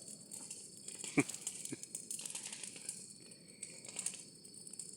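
Wood bonfire crackling faintly, with scattered small pops and two brief sharper snaps about a second in and just under two seconds in.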